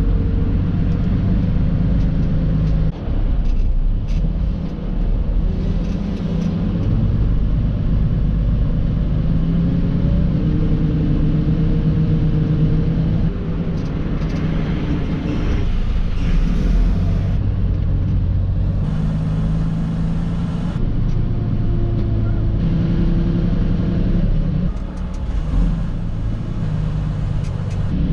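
Semi-truck engine running as the truck pulls away and drives, its pitch rising and dropping several times as it works through the gears.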